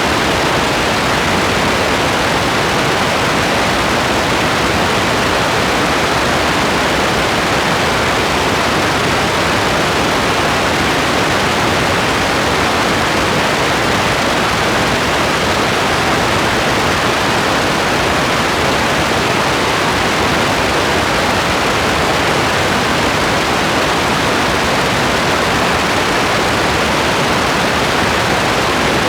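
Steady rain: an even, unbroken hiss with no single drops, thunder or changes standing out.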